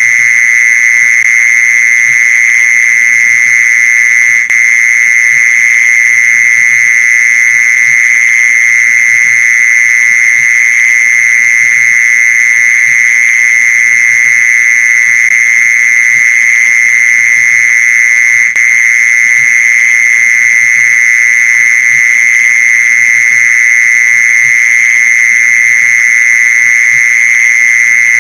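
Mole cricket song: one continuous high trill at a steady pitch, with two very brief dips about 4 and 18 seconds in.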